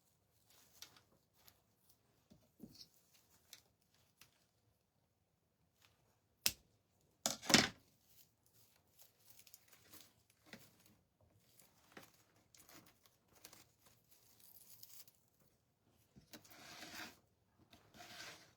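Quiet rustling and crinkling of ribbon, raffia and artificial greenery being handled. A sharp click comes about six and a half seconds in, followed a moment later by a brief louder rustle.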